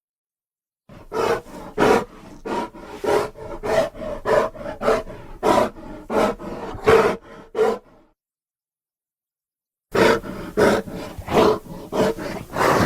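Designed creature sound effect for a giant short-faced bear (Arctodus): a run of short, rough roars about two a second from about a second in, a two-second pause, then another run near the end.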